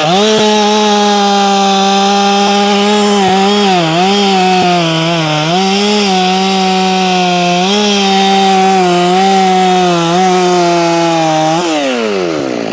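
Ported Efco 165 two-stroke chainsaw held at full throttle while cutting wood under light pressure, running at about 12,000 RPM with the carburettor set slightly rich. Its pitch sags briefly a few times as the chain bites, then falls away toward idle near the end.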